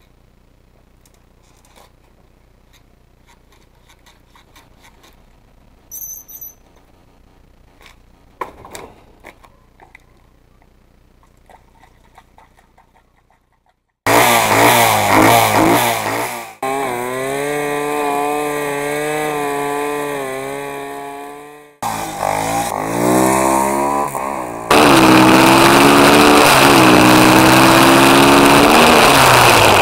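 Faint scattered clicks and ticks, then, from about halfway, a pit bike's small single-cylinder engine running loud and revving, its pitch rising and falling. It comes in several segments that start and stop abruptly, with the loudest stretch near the end.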